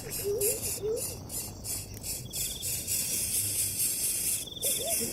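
Insects, crickets or similar, chirping in a dense, pulsing high-pitched chorus, with a short buzzy trill repeating about every two and a half seconds. A few low, wavering animal calls come in the first second and again near the end.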